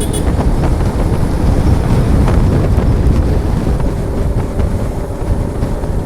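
Wind rushing over the microphone of a moving motorcycle, a steady low rumble, with the bike's engine running underneath.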